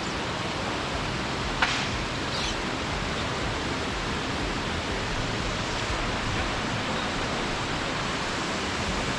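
Steady, even rush of flowing water, like a stream running below, with one brief tap about one and a half seconds in.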